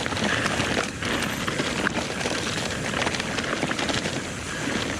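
Evil The Calling mountain bike riding fast down a dirt trail: tyres rolling over rough ground with a constant clatter of small knocks and rattles from the bike.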